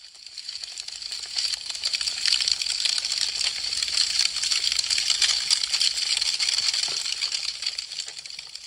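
Burning wood fire crackling: a dense stream of sharp pops and snaps over a soft hiss. It fades in at the start, swells in the middle and fades away near the end.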